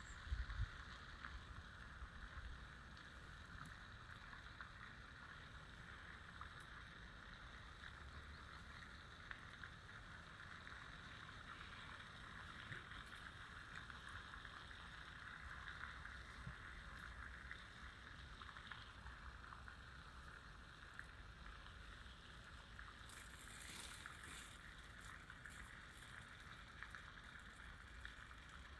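Faint, steady outdoor ambience: an even hiss over a low rumble, with a few light clicks about three-quarters of the way through.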